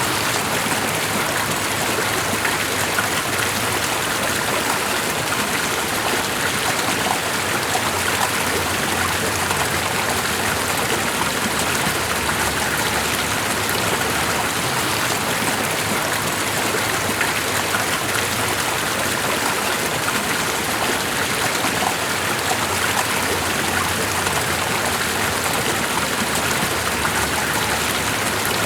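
Steady rushing water, an even hiss that does not change or break.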